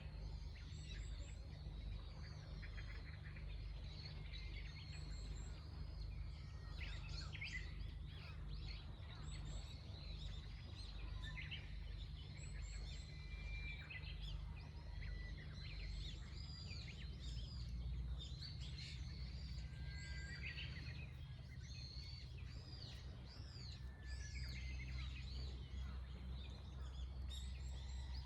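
Several small birds chirping and singing, with short overlapping calls, over a steady low rumble.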